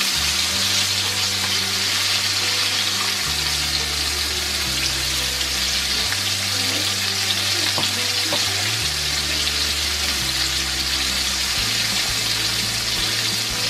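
Egg-and-flour-battered chicken pieces frying in hot oil in a pan, a steady sizzle.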